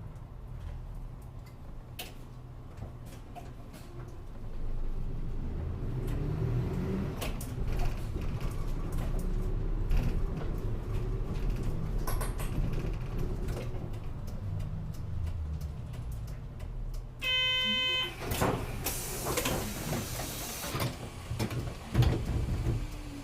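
Inside a route bus: the engine and road rumble while the bus runs in to a stop. About three-quarters of the way through comes a short electronic chime, then a hiss of compressed air as the doors open, with a thump near the end.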